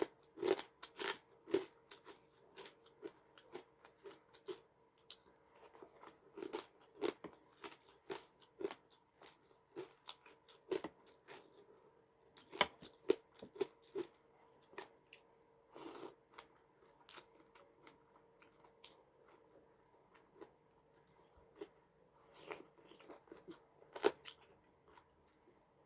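A person chewing and biting crunchy food close to the microphone, with irregular crunches and mouth sounds. There is a quieter lull about two-thirds of the way through.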